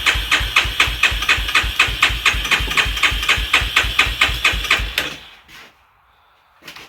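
Polaris Warrior ATV engine cranking over without firing, a steady rhythm of about five thumping compression strokes a second that stops about five seconds in. It is not catching because no fuel is reaching it.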